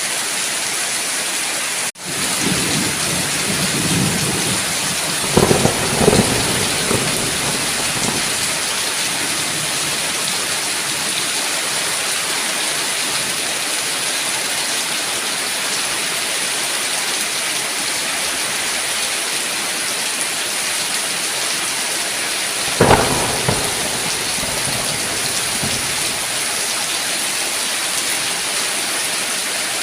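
Steady heavy rain with thunder: a rolling rumble with two sharp cracks about five to seven seconds in, and another crack and rumble about 23 seconds in. The rain cuts out for an instant about two seconds in.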